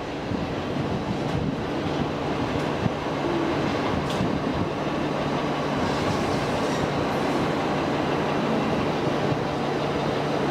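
Train running on the rails: a steady rumble of wheels with a low hum, swelling slightly early on, then holding level.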